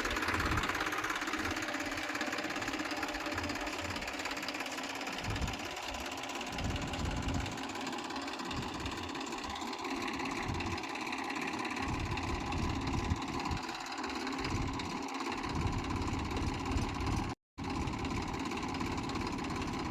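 Diesel engine of a JCB backhoe or tractor running steadily, with a low rumble that swells and fades every second or two. There is a brief dropout near the end.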